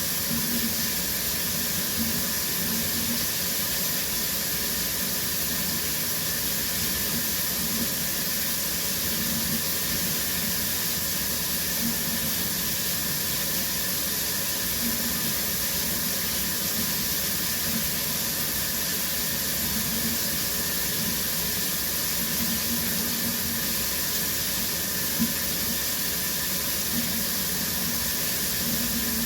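Shower running steadily: water spraying from the showerhead and splashing down as an even hiss, with one brief tap late on.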